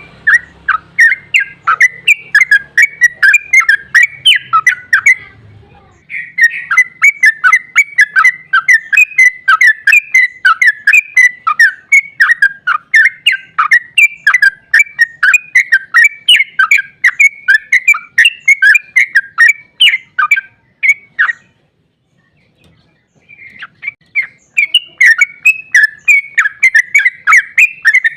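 Yellow-vented bulbul (trucukan) singing its long, rapid-fire 'ropel' song: a fast, unbroken chatter of bubbly notes. It sings in long runs, breaks off briefly about three-quarters of the way through, then starts again.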